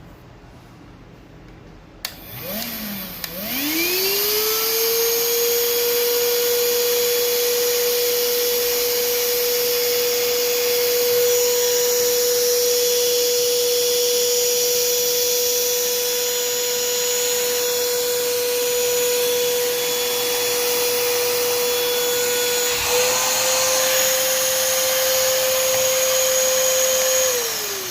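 STIHL SEA 20 cordless handheld vacuum switched on with a click, its motor spinning up into a steady high whine over a rush of air. About 23 s in the whine steps up slightly, and near the end it is switched off and winds down in falling pitch.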